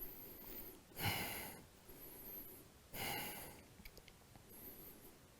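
A person breathing audibly while holding a twisting yoga pose: two faint, noisy breaths about two seconds apart.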